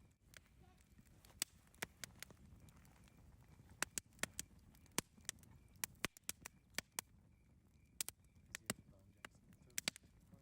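Campfire crackling: irregular sharp pops and snaps, some in quick clusters, over the low steady rush of the burning wood.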